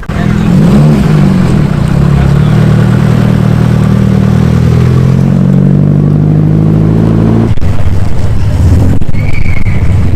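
Car engine running loudly close by, its pitch wavering at first and then slowly falling, changing abruptly about seven and a half seconds in to a lower rumble.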